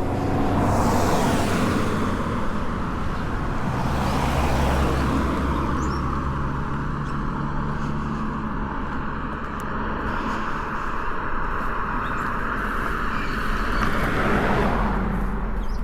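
Road traffic: cars passing on a paved road, their tyre and engine noise swelling about a second in, again around four to five seconds, and once more near the end, over a steady low rumble.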